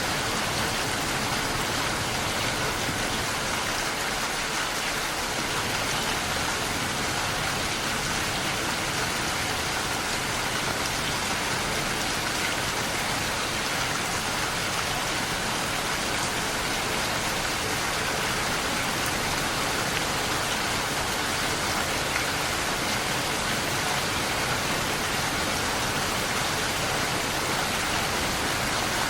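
Steady rain falling and pattering on surfaces, an even hiss that neither builds nor fades.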